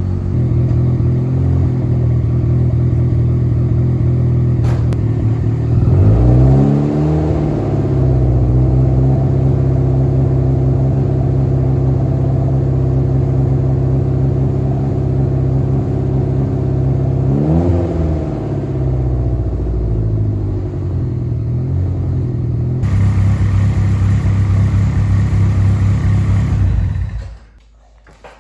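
Turbocharged Honda Civic hatchback engine idling as it warms up, heard from the exhaust end; from back here it sounds kind of like a Subaru. It is revved briefly twice, about six seconds in and again about eighteen seconds in, and the sound cuts off suddenly near the end.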